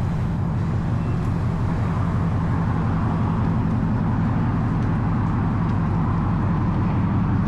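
2025 Mustang GT's naturally aspirated V8 idling with a steady low rumble.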